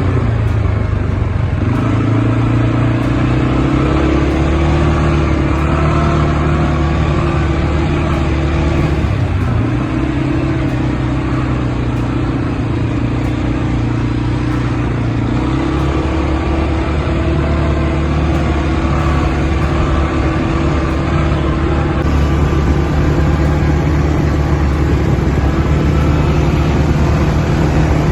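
ATV engine running under way. Its pitch steps up and down a few times as the throttle changes.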